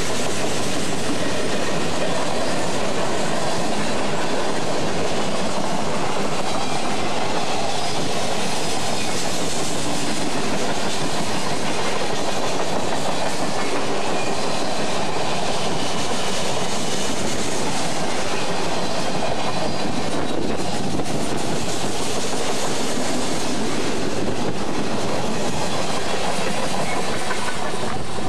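Freight cars of a passing freight train rolling steadily by on the rails: a loud, unbroken rumble of steel wheels on track.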